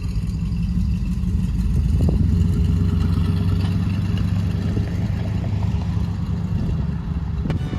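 A car engine running at idle, steady and low-pitched, a little louder from about two seconds in.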